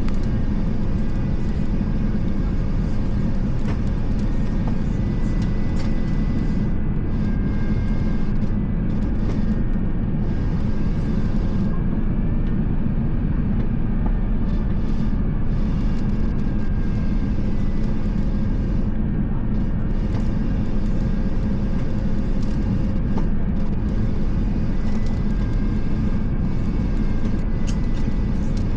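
Steady low rumble of cabin noise inside an Airbus A350 in motion, its Rolls-Royce Trent XWB engines running evenly, with faint steady tones above the rumble.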